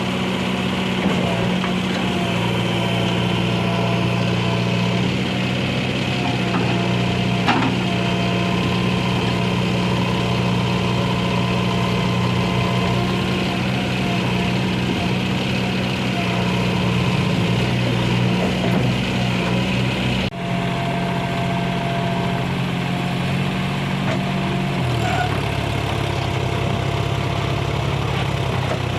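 Diesel engine running steadily, with a brief break about 20 seconds in and a change in its low pitch about 25 seconds in.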